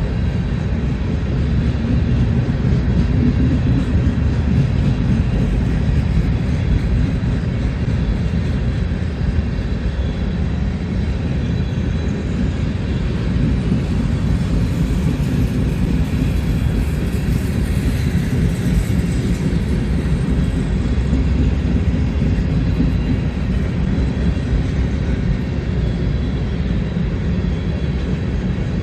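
Long grain train of freight cars rolling through a rail yard: a steady, heavy rumble of wheels on the rails. About halfway through, a brief higher hiss swells and fades.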